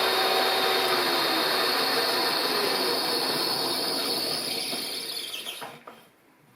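Milling machine running a slitting-saw type cutter, a steady mechanical noise with a high squealing whine. About four and a half seconds in it winds down and fades to quiet, as the spindle is stopped at the end of the cut.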